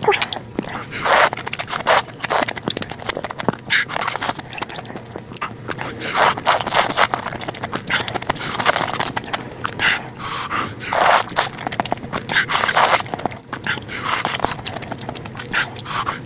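Close-miked mukbang eating sounds: wet chewing and slurping of soup. Many sharp clicks and smacks, broken by repeated slurps of about half a second to a second each.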